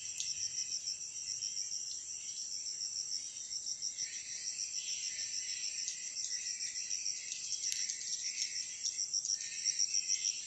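Insects trilling steadily, a high rapid pulsing trill, with fainter irregular chirps beneath.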